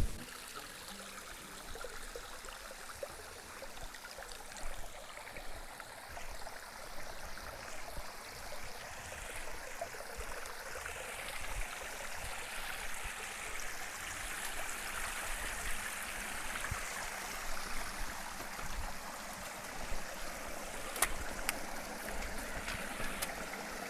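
Water of a small waterfall and creek running steadily, with a few sharp clicks near the end.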